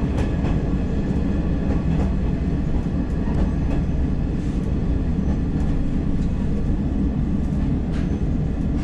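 Kumagawa Railway diesel railcar heard from inside its cab, running slowly into a station stop: a steady low engine-and-running rumble with a faint even hum, and a few scattered sharp clicks from the wheels and running gear.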